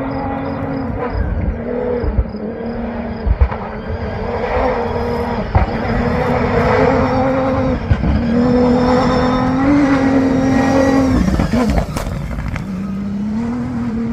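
A rally-raid competitor's engine running hard at high revs along the stage, its pitch holding with small steps. The revs drop sharply about eleven and a half seconds in, then climb again.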